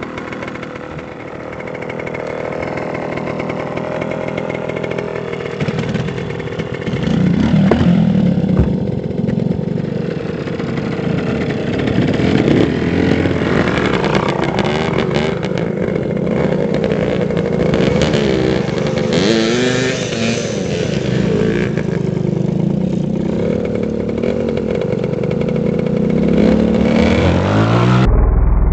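Dirt bike engine running and revving, its pitch rising and falling over and over. It gets louder about seven seconds in.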